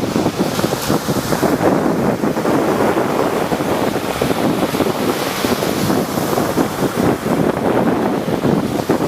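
Rough sea surf: waves breaking and washing in a continuous rush, with surges of hiss about a second in and again around five to six seconds in. Wind buffets the microphone.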